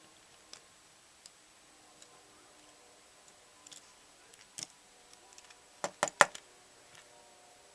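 Small plastic Lego pieces clicking and tapping as they are handled and pressed together, with a quick run of louder clacks about six seconds in.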